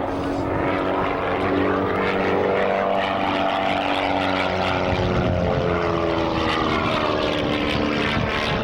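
Single-engine propeller aerobatic plane flying its display, engine and propeller running loud with the pitch sliding down midway and rising again near the end.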